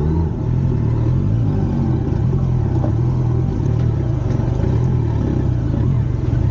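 Motorcycle engine running under throttle at fairly steady revs, the note wavering slightly, as the rider tries to drive the bike out of a muddy trench.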